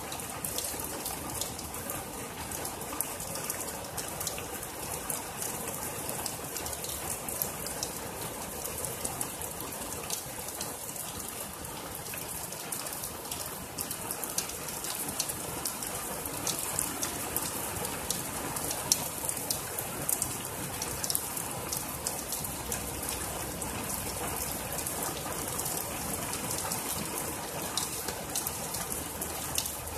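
Steady heavy rain falling on trees and a lawn, a constant hiss with many close drops pattering.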